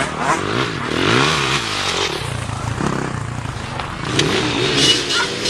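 Dirt bike engines revving hard as racers pull away from the start, the pitch rising and falling through the gears.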